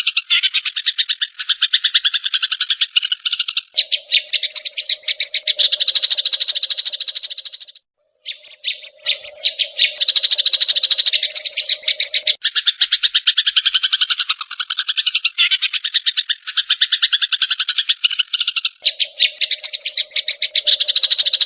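Sparrows giving a rapid, harsh chattering of calls in fast pulses, the agitated calls of fighting sparrows, breaking off briefly about eight seconds in.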